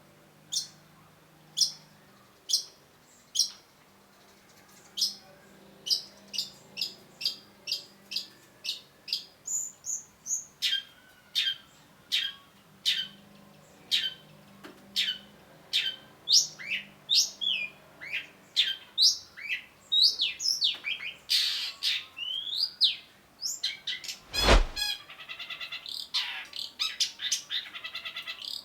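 Long-tailed shrike singing: sharp, high, falling notes repeated about once a second, then quickening into a fast, varied run. A loud thump comes near the end, followed by rapid buzzy chattering.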